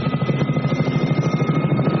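Helicopter running steadily, its rotor beating fast and evenly under a thin steady turbine whine.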